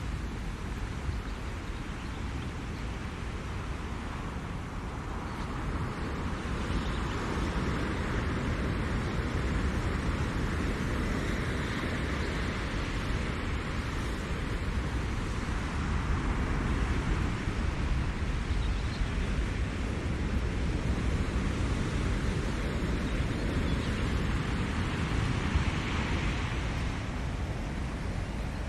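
Ocean surf: waves breaking and washing up the shore, a steady rushing that swells louder several times, over a low rumble.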